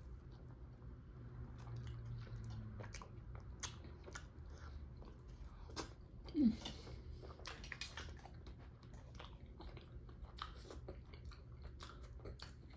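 Close-miked chewing and mouth sounds of a person eating, with many small wet clicks. There is one brief falling hum about halfway through.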